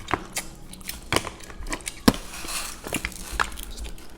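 Eating at the table with chopsticks: a series of sharp clicks and taps, the loudest about two seconds in.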